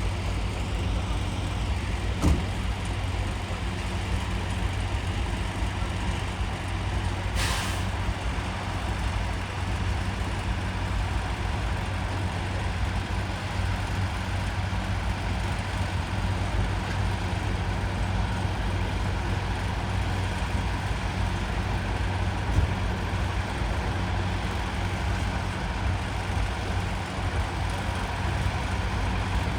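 Heavy vehicle engine idling with a steady low hum, and a short air-brake hiss about seven and a half seconds in. A single click comes a couple of seconds in.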